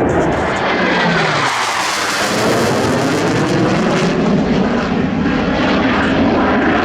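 Jet aircraft making a low pass: loud rushing engine noise that swells to its fullest about a second and a half in, sweeping in pitch as it goes by, then carries on as a steady rumble as it draws away.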